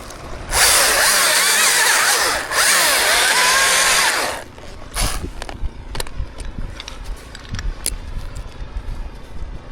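Chainsaw running at full throttle and cutting wood in two bursts with a short break between them, its pitch wavering under load, then stopping about four seconds in. After that, only a few faint knocks.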